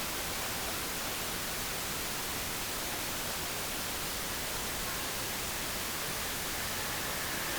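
Steady, even hiss with no distinct event: background noise of the recording.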